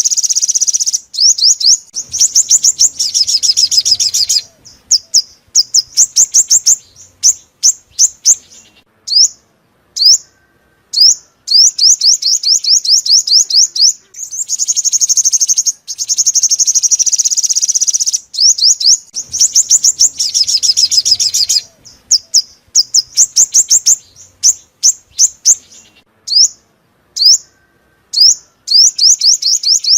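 Sunbird song: fast runs of high, thin notes, some packed into trills and others spaced out as separate chips, with short gaps between phrases. The same sequence comes round again about every 18 seconds, as a looped lure recording.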